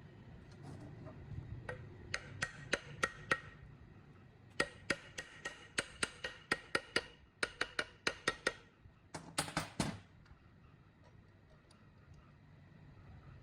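Light, sharp taps with a short ring, about three a second, coming in three runs; the last run, about nine seconds in, is quicker.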